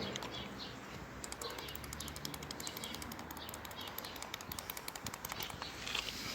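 Faint, irregular light clicking and tapping from hands working on the stripped-down engine's pistons and connecting rods.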